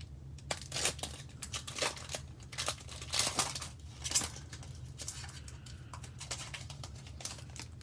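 Foil trading card pack wrapper being torn open and crinkled in the hands, an irregular run of crackles and tears that is densest in the first half and thins out. A steady low hum sits under it.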